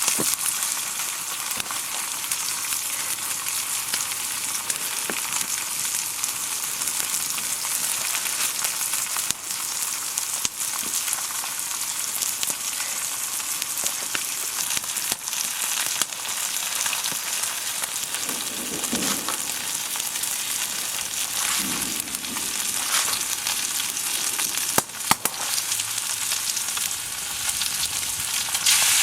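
Food frying, with a steady sizzle and a few sharp crackles; twice, in the second half, a brief lower sound of stirring or scraping breaks through.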